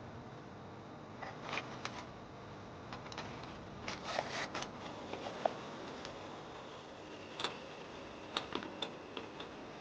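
Scattered light clicks and knocks of small objects being handled, in short clusters over a steady low hiss.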